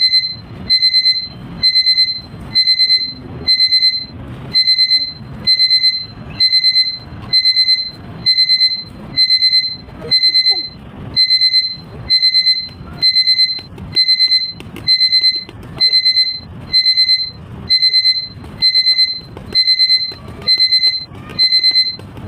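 Electronic alarm beeping in quick clusters of four or five high-pitched beeps, a cluster a little more than once a second, repeating without a break.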